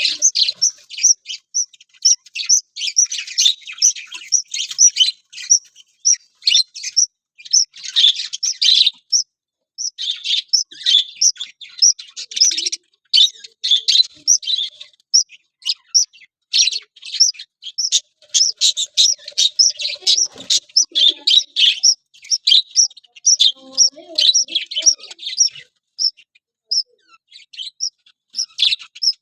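Budgerigars chirping and chattering: a dense, continuous stream of quick, high chirps with busier clusters of warbling in between.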